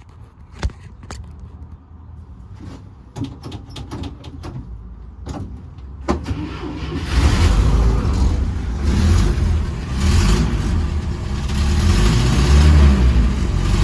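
International Harvester Scout 80's four-cylinder engine on a cold start. A few clicks and knocks come first, then about six seconds in it turns over and catches. It keeps running with an uneven, loud low rumble.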